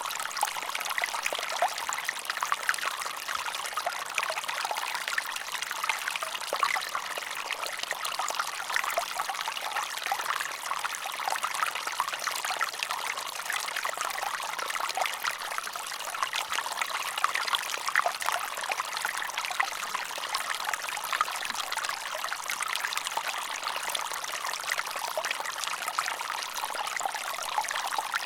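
Running water trickling steadily, a dense patter of many small splashes with no deep rumble.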